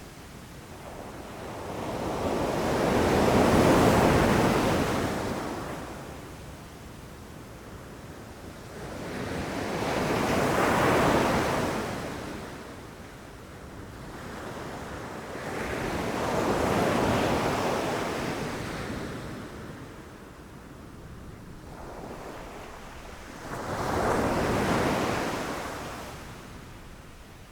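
Ocean waves breaking and washing in, four surges that swell and fade away about every six to seven seconds.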